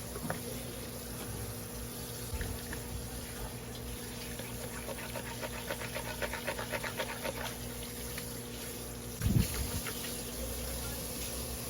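Knife filleting a large olive flounder, with a quick run of short scraping strokes, about five a second, midway. A single low thump comes near the end, over a steady hum.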